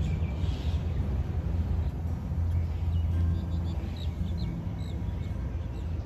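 Birds chirping in short high calls, several in quick succession about four seconds in, over a steady low rumble.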